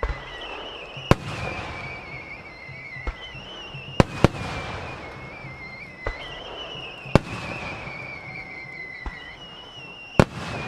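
Starmine fireworks display: aerial shells bursting one after another with sharp bangs, the loudest about a second in, twice in quick succession about four seconds in, about seven seconds in and near the end, over a continuous crackle and rumble.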